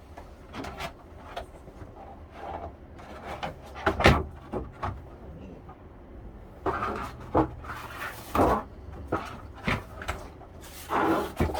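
Irregular clicks, knocks and rustles of solar panel cables and connectors being handled and plugged together. The loudest knocks come about four seconds in and past the middle, with short rustling stretches between them.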